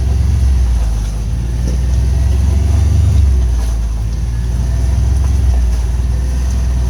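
Vehicle engine running under way with a steady low drone, heard from on board while driving.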